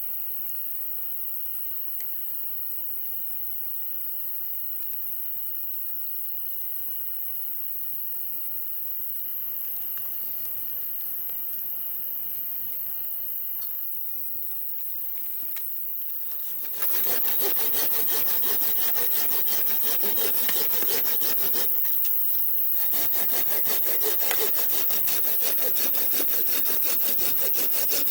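A saw cutting wood, starting suddenly about 17 seconds in with a quick, continuous run of rasping strokes. Before that, a steady insect trill with a high thin tone.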